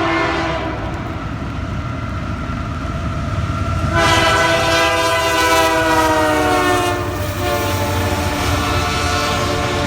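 Horn of a Canadian Pacific GE AC4400CW diesel locomotive leading a freight train at track speed: a short blast at the start, then a loud long blast about four seconds in whose pitch drops as the locomotive passes, sounding on lower to the end. Underneath, the steady rumble of the locomotive and train rolling by.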